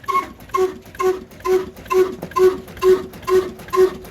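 Old black single-cylinder stationary engine running slowly and evenly, its exhaust giving a pitched pop about twice a second.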